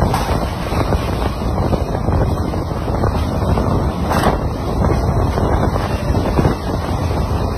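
Strong cyclone wind buffeting the microphone in a steady heavy rumble, with a short sharper rush about four seconds in.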